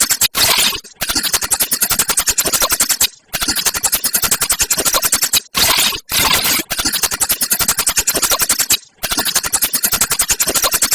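Sparrows chattering: fast, dry, clicking runs of calls about two seconds long, broken by short pauses and repeated over and over.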